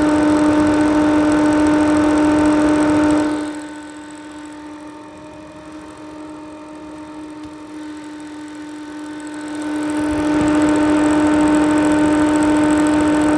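2009 Vortice extractor fan running with a loud, steady hum; the hum drops away sharply about three seconds in and swells back to full strength near ten seconds.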